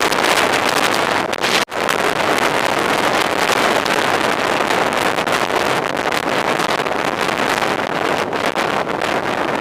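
Steady wind noise buffeting the microphone, with a very brief dropout about two seconds in.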